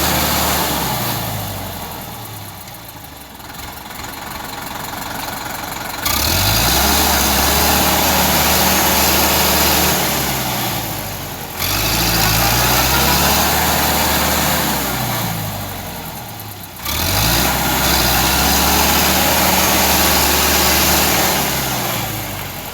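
Tractor engine revving up and down as it labours in deep mud. The sound jumps abruptly in level a few times.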